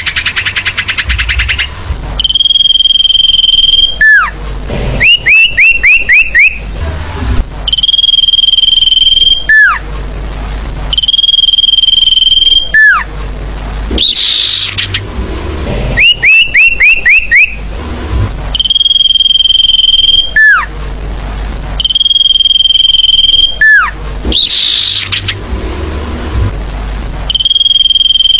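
Sirfu song played in a loop as a bird lure. Long, steady high whistles each end in a sharply falling note. They alternate with quick runs of about five rising chirps and an occasional harsher buzzy note, and the phrases repeat about every two seconds.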